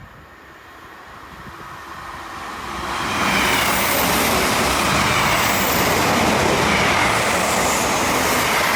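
A train approaching and passing at speed: the sound builds over about three seconds to a loud, steady rush of wheels on rail with faint high whining tones, and is still loud near the end.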